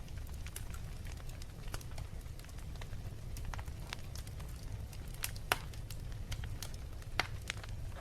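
Wood fire crackling in a fireplace: irregular sharp pops of burning logs over a steady low rumble, the loudest pop about five and a half seconds in.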